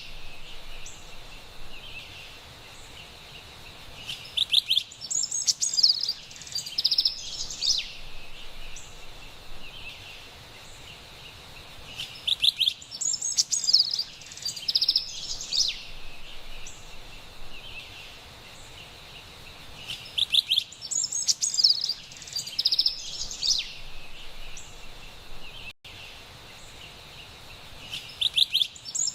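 Carolina wren singing: four bouts of quick, loud, repeated phrases, each about three seconds long and roughly eight seconds apart, over a faint steady background hiss.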